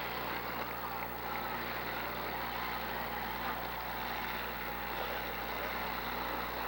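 Several demolition derby cars' engines running and revving together, a steady dense mass of engine noise.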